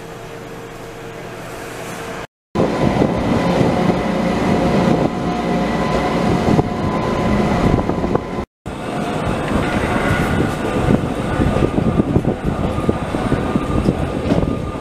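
Electric mountain train running along the track, heard from aboard: a steady rumble of wheels and running gear on the rails. For the first two seconds it is quieter, with a steady hum, and it breaks off twice abruptly into louder running noise.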